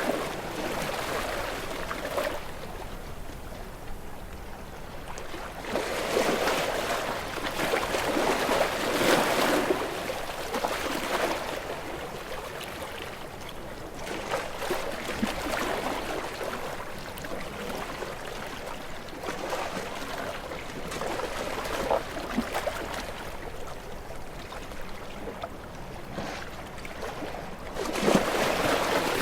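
Ocean waves washing in, a steady rush of water that swells into louder surges every several seconds, strongest about six to ten seconds in and again near the end.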